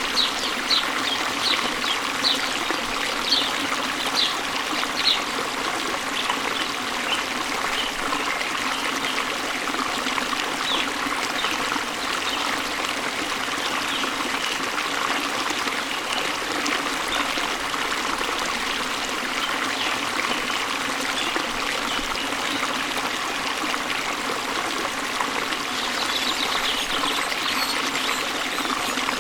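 Waterfall water pouring into a stream with a steady rushing flow. Short high bird chirps come in quick series over the first several seconds, scattered through the middle, and again near the end.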